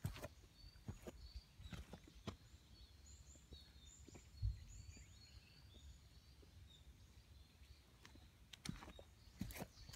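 Faint bird calls: short high chirps from a few seconds in until about the middle, over soft footsteps on a dirt forest path, with one low thump about halfway through.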